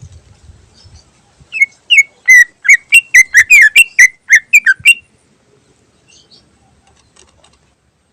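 Greater green leafbird (cucak ijo) singing a fast run of loud whistled notes, about four a second for some three seconds, starting about a second and a half in. This is the rapid, repeated delivery that keepers call ngentrok.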